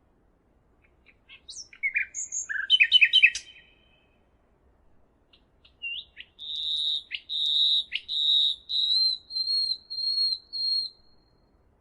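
A songbird singing: a quick jumble of chirps and short gliding notes, then after a pause of about two seconds a run of about seven high notes held at nearly the same pitch.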